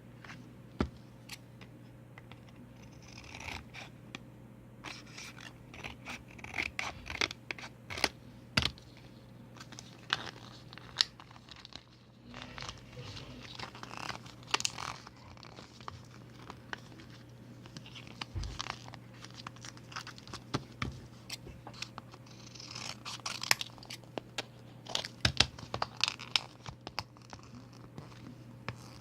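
Scissors snipping and paper rustling as a printed photo is cut to the outline of a phone for a clear case: irregular snips, scrapes and crinkles.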